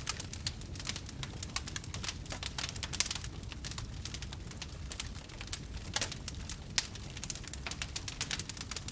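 Wood campfire burning, with a steady low rumble of flame under constant irregular crackling and popping. A few sharper pops stand out, about three seconds in and twice near six to seven seconds.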